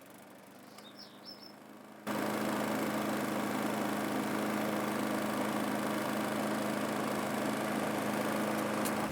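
Lawn mower engine running steadily, a cartoon sound effect, loud and even from about two seconds in. Before that a quieter hum plays, with a few short bird chirps about a second in.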